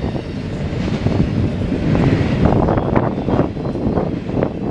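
Double-stack intermodal well cars of a freight train rolling past at speed: a steady rumble of steel wheels on the rails, with irregular clacks.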